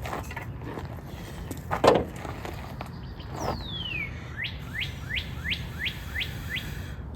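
A songbird sings one falling whistled slur, then a run of about seven quick rising notes, roughly three a second. Earlier, a short thump or rustle of handled gear is the loudest sound.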